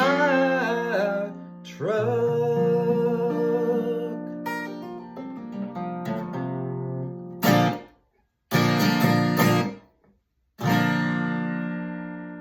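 Acoustic guitar and voice ending a country song: a long held sung note over strummed chords, then a few sharp strums broken by two brief silences, and a final strummed chord left ringing and fading out.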